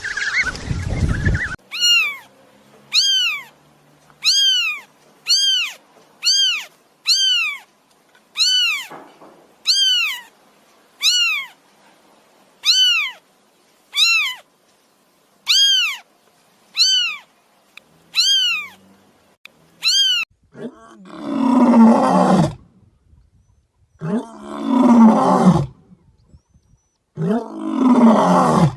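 A kitten mewing over and over, about fifteen short high mews that rise and fall, roughly one a second. Then a big cat roars three times, each roar about two seconds long.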